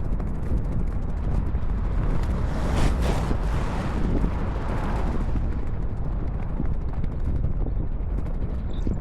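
Wind buffeting the microphone during fast inline skating, over a steady low rumble of the wheels rolling on pavement, with faint scattered ticks. The rush swells about two and a half seconds in and fades again by five seconds.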